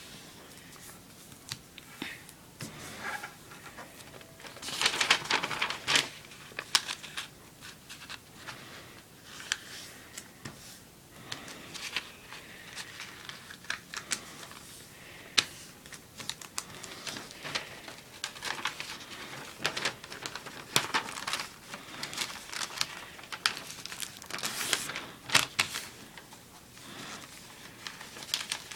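A sheet of paper being folded and creased by hand into a paper airplane: irregular rustling and crinkling with sharp clicks and swishes as the folds are pressed, loudest about five seconds in and again near the end.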